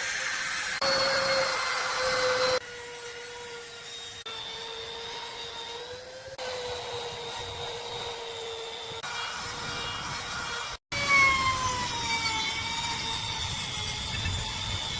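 A small electric power tool motor running with a steady whine across several short spliced clips, its pitch and loudness shifting at each cut, with a brief silent dropout about eleven seconds in.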